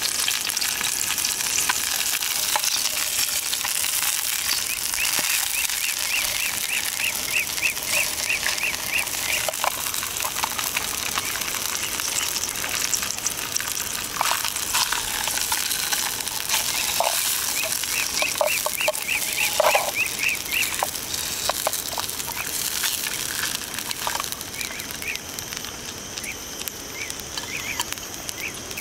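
Sausages sizzling in oil in a small camping pan, with a metal spoon scraping and turning them around the middle. A bird calls in two runs of quick repeated notes, one a few seconds in and one later.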